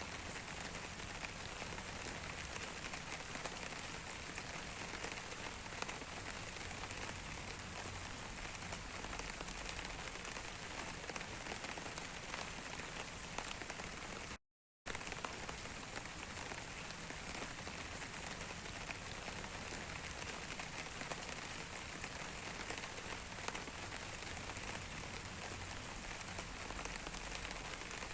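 Steady rain, with many small drops pattering on a surface. About halfway through it cuts out completely for a fraction of a second, then goes on.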